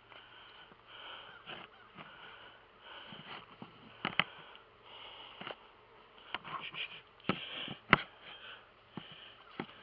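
Heavy, repeated breathing while a nuc hive box is strapped shut and handled, with several sharp clicks and knocks from the strap and box. The loudest knocks come about four seconds in and again near eight seconds.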